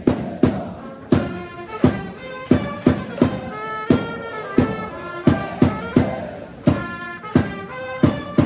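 Japanese pro baseball cheering section's brass band: trumpets play a player's cheer-song melody over a steady, hard drum beat.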